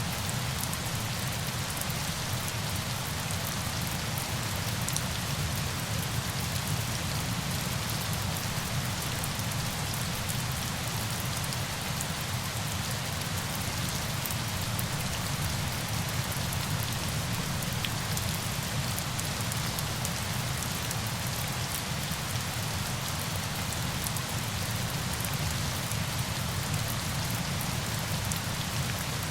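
Falling water: a steady rush with a deep rumble under a fine hiss, sprinkled with small droplet ticks, unchanging throughout.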